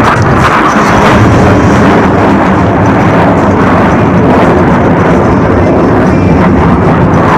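Loud, steady roar of jet engines as a military jet flies past low, drowning out the loudspeaker music.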